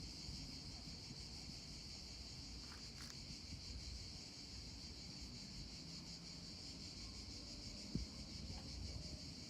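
Steady high-pitched insect buzzing, with a low rumble of wind on the microphone and a single tap about eight seconds in.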